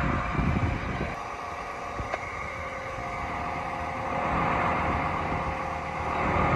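John Deere 7310R tractor's six-cylinder diesel engine running steadily, with gusts of wind buffeting the microphone near the start and again near the end.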